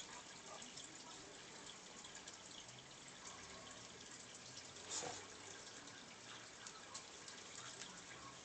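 Near silence: faint room hiss with scattered small clicks and one louder knock about five seconds in.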